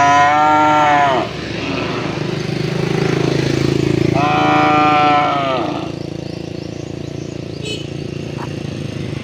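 Cow mooing twice: one long call right at the start and another about four seconds in, each slurring downward at the end. A steady low rumble runs underneath.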